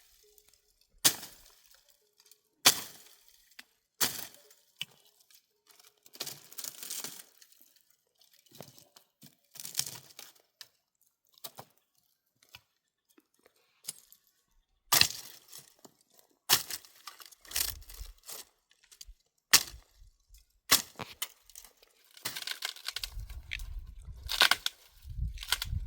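Dry branches being snapped and broken by hand for firewood: sharp cracks at irregular intervals, with rustling of twigs between them and a busier stretch near the end.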